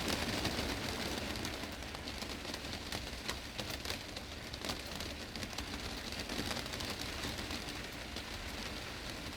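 Heavy rain drumming on a glass greenhouse roof: a dense steady hiss with many sharp ticks of individual drops striking the glass, easing slightly toward the end.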